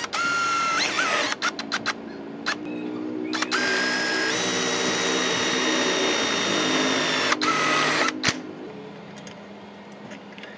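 A power tool's electric motor whining as it spins up, switched on and off in a few short bursts, then held running steadily for about four seconds before it cuts off.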